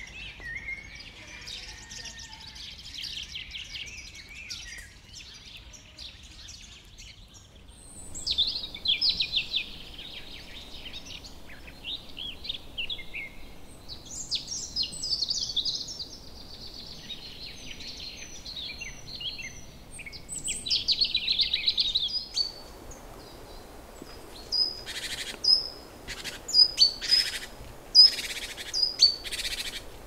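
Several birds chirping and trilling, high-pitched and changing from phrase to phrase. In the last several seconds comes a run of short, sharp, loud calls, about two a second.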